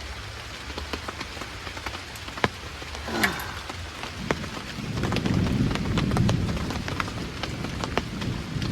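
Steady rain, with individual drops ticking sharply on a tarp overhead. A low rumble of thunder comes in about five seconds in.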